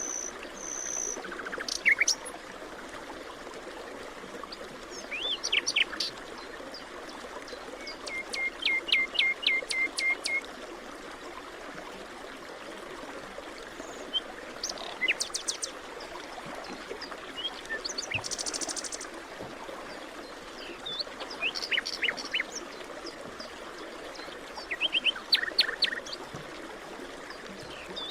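Several wild birds chirping and calling in short phrases over a steady hiss of running water. One bird gives a quick run of about seven even notes about a third of the way in.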